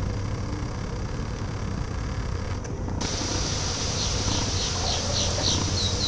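Honeybee swarm buzzing around a catch box as it moves in, a steady hum over background noise. From about four seconds in, a run of short, high chirps repeats a few times a second.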